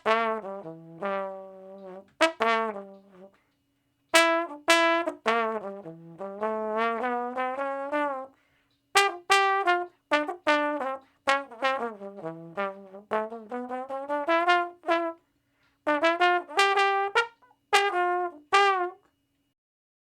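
Tuba playing short phrases of separate notes, with brief pauses between phrases; some runs step down in pitch and climb back up.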